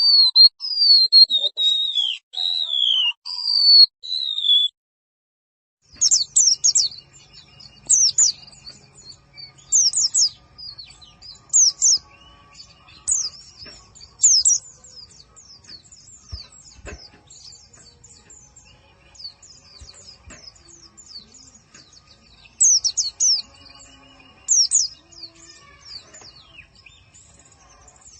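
Recorded bird song for training a pleci (white-eye). It opens with high, gliding whistled notes, breaks off into a second or so of silence, then goes on with fast, high chirping phrases that come in bursts about every two seconds.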